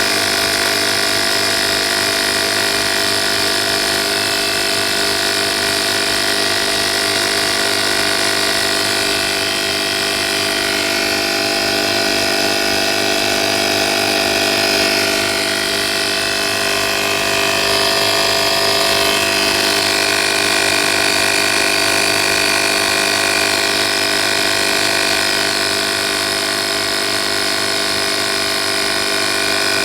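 Portable air compressor running steadily, a dense mechanical hum and whine. Its tone shifts slightly about halfway through.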